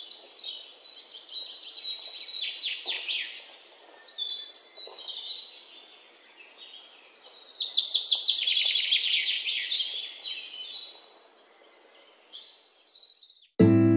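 A songbird singing in quick, high, varied phrases: one long run of song, a short pause, a second long run, then a fainter phrase. Piano music starts just before the end.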